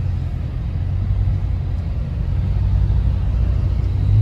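Car engine and road noise: a steady low drone.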